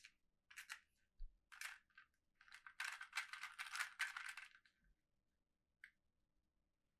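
Faint rustling and crinkling of toy packaging being handled, in several short bursts with one longer stretch of about two seconds, and a couple of small clicks.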